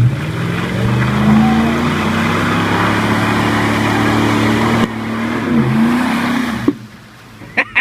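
A vehicle engine revving hard under load, its pitch climbing over the first two seconds and then held high over the hiss of spinning tyres, as it pulls to free a stuck truck on a tow strap. The revs drop about five seconds in and the engine cuts back suddenly near the end.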